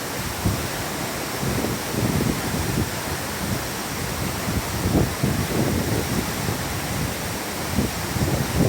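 Steady rushing noise of a waterfall, with irregular gusts of wind buffeting the microphone in low rumbles.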